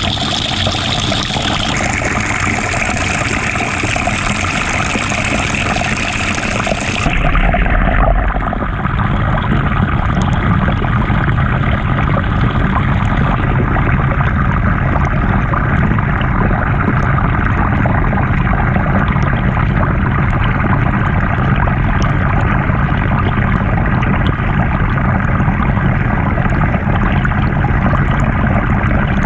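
Water churning and sloshing in the tub of a GE top-loading washing machine, heard from a camera fixed to the agitator. About seven seconds in, the sound turns muffled, losing its hiss and becoming a low rumble.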